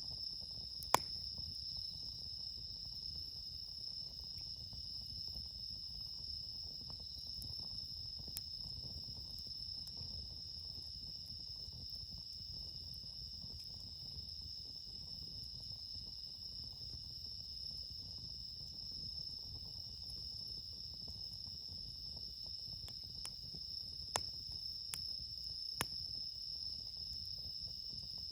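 Crickets, bell crickets among them, singing in a steady high-pitched chorus. A few sharp pops from the campfire, one about a second in and several near the end.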